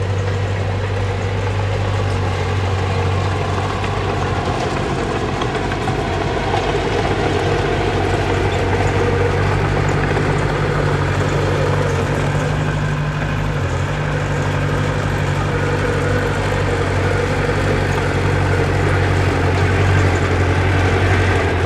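Diesel engine of earthmoving equipment running steadily, with a deep hum that wavers briefly about two-thirds of the way through.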